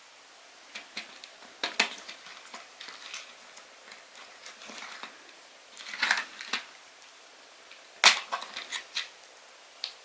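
Slime being squeezed and poked by hand, giving sharp clicking pops in bunches, about two seconds, six seconds and, loudest, eight seconds in.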